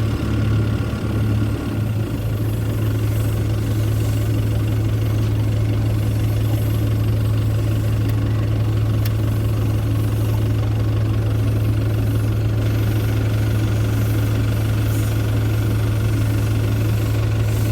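Road roller's engine running steadily with a constant low hum.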